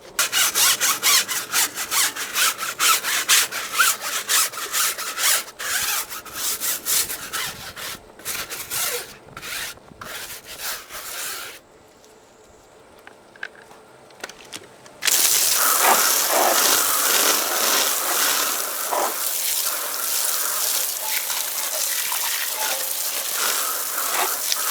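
Wheel brush scrubbing a car wheel and tyre in quick, rapid strokes, stopping about twelve seconds in. A few seconds later a hose spray nozzle starts up with a steady hiss of water, rinsing the wheel.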